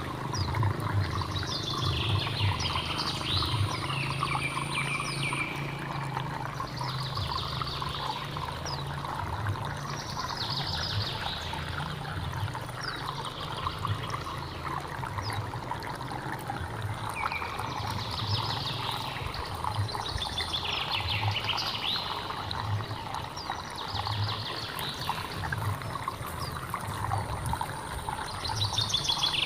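Flowing water from a hill stream, a steady rushing and trickling, with a bird singing short trilled phrases over it every few seconds.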